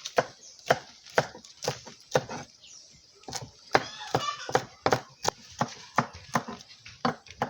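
Kitchen knife chopping vegetables on a cutting board, a sharp stroke about twice a second with a short pause about halfway through.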